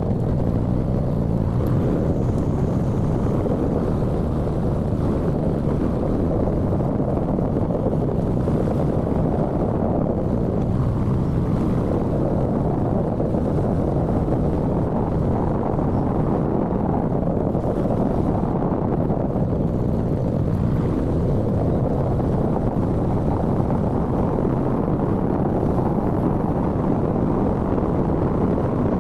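Steady wind and road noise from a moving motorcycle, the wind rushing on the microphone and covering the engine.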